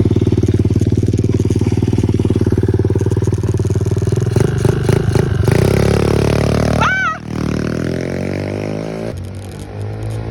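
Motorcycle engine running steadily, then revved so its pitch climbs, before dropping back as it pulls away. A short high squeal rises and falls about seven seconds in.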